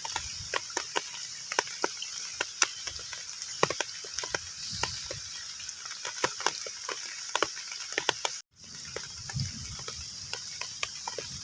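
Heavy rain falling on a pond: a steady hiss with many single drops plinking irregularly on the water. The sound cuts out for an instant about eight and a half seconds in.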